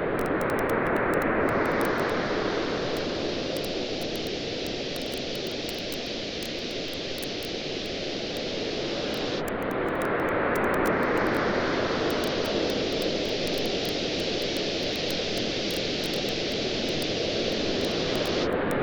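Campfire crackling with scattered small pops over waves washing onto a beach, the surf swelling roughly every nine seconds.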